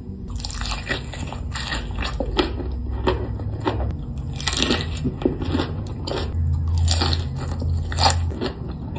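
Close-up eating sounds: a person biting into and chewing crunchy food, with many irregular crisp crunches, over a steady low hum.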